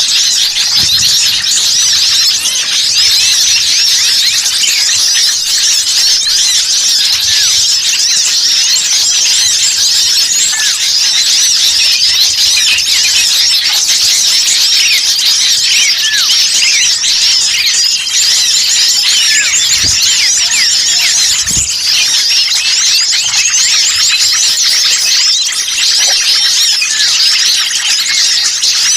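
A dense, continuous chorus of many small songbirds chirping and twittering at once, high-pitched and overlapping without a break: a bird-lure recording of noisy, agitated small birds, used to draw wild birds in.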